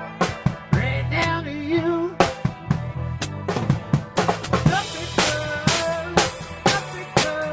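Band music with a drum kit keeping a steady beat, bass drum and snare under bass notes and other pitched instruments, with cymbals splashing more strongly from about five seconds in.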